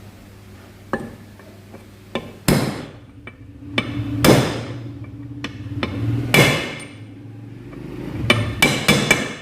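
Hammer blows on metal driving a bearing into a Bajaj Pulsar motorcycle engine case, struck through a socket used as a drift rather than on the bearing itself. A few light taps come first, then three heavy ringing blows about two seconds apart, and a quick run of blows near the end.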